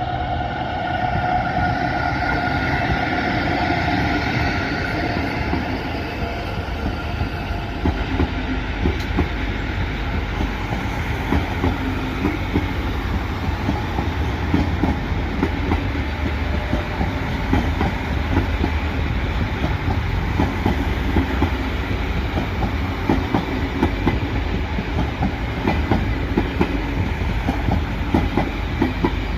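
Train running along the tracks: a steady rumble with the wheels clicking over rail joints and points. A tone dies away over the first few seconds.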